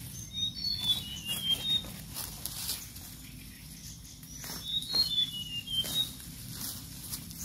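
A bird singing two short phrases of quick, slightly falling whistled notes, one near the start and one about two-thirds through, over intermittent rustling and crackling of grass and dry leaves being handled as plants are pulled up.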